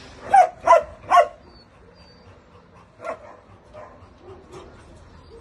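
Dog barking three times in quick succession, then once more, fainter, about three seconds in, with faint bird chirps in the background.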